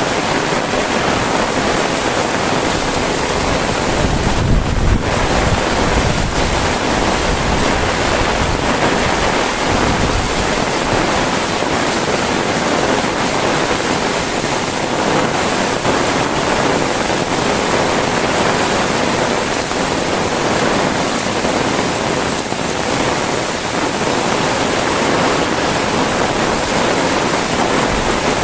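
Heavy rain falling steadily, a loud even hiss. A gust of wind buffets the microphone with a low rumble about four to five seconds in.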